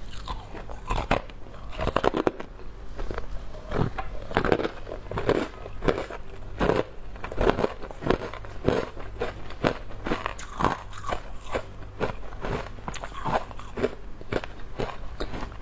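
A person biting and chewing hard ice: a steady run of sharp, irregular crunches, about two a second.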